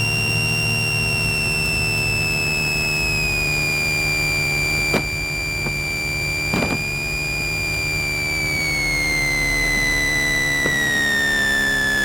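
Light aircraft's piston engine running at low power during taxi, heard as a steady hum through the cockpit audio, over which a thin high whine slowly drops in pitch. Two faint clicks come about halfway through.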